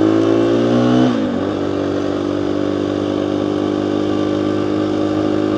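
Motorcycle engine under way, heard from a microphone inside the rider's helmet: it climbs in pitch under acceleration, drops sharply about a second in on an upshift, then holds a steady cruising note.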